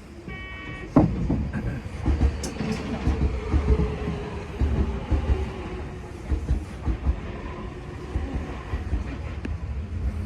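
Tokyo Metro 10000 series train: a short electronic door chime, a loud thud about a second in as the doors shut, then the train running with a low rumble and clatter of wheels over rail joints.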